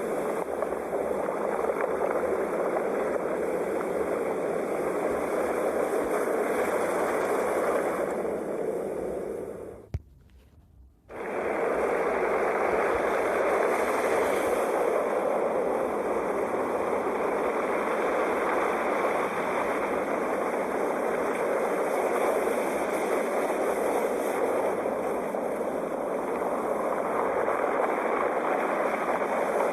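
Sea waves breaking as a continuous rushing wash of surf. About ten seconds in the sound briefly cuts out with a click, then comes straight back, like a join in a looped recording.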